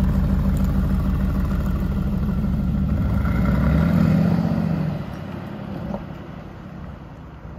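Aston Martin Vantage's engine and exhaust running at low revs as the car pulls away, rising in pitch briefly about four seconds in, then fading as it drives off.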